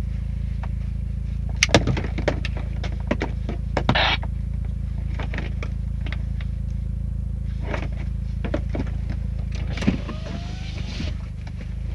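Mitsubishi Lancer Evolution IX engine idling steadily, heard from inside the cabin, with scattered clicks and knocks as the racing harness is buckled and adjusted.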